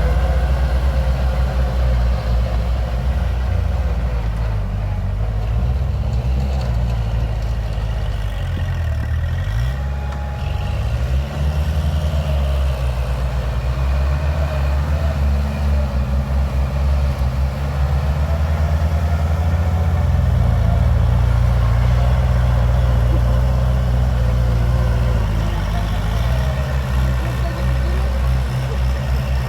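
Kubota tractor's diesel engine running, its pitch shifting up and down and then holding steadier for the last third.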